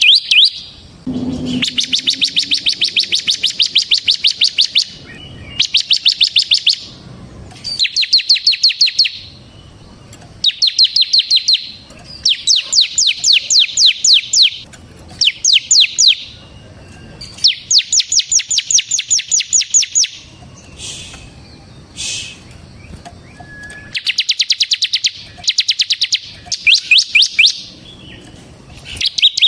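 Bar-winged prinia (ciblek semi) singing its rapid 'ngebren' trill: loud runs of sharp, high, quickly repeated notes, each run lasting one to three seconds, with short pauses between them.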